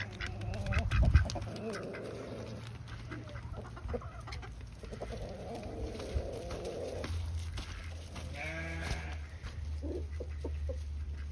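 Chickens clucking, with several drawn-out, wavering calls and scattered light clicks among them.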